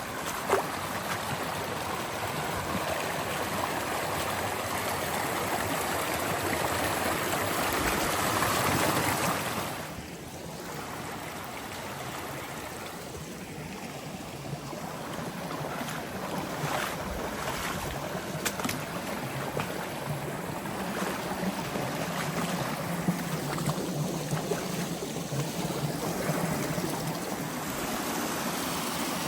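Steady rushing of a flowing creek, louder for about the first ten seconds and then quieter, with a few faint clicks and a low hum later on.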